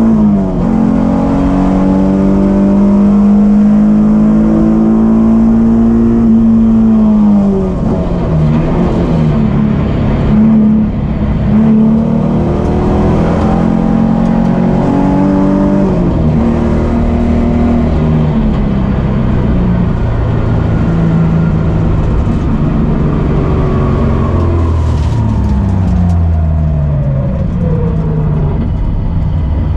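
Nissan 350Z's 3.5-litre VQ35DE V6 heard from inside the cabin, held at high revs on a straight, then dropping in pitch about seven seconds in as the car brakes and downshifts. After that the engine note rises and falls with shifts and throttle through the corners, and near the end it winds steadily down as the car slows for a red flag.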